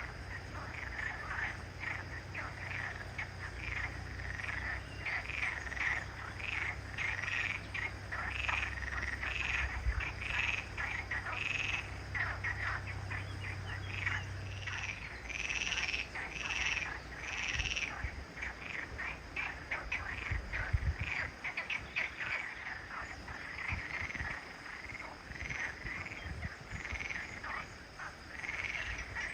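A chorus of frogs calling, with many short croaking notes repeating and overlapping. A low steady hum runs underneath and stops about halfway through.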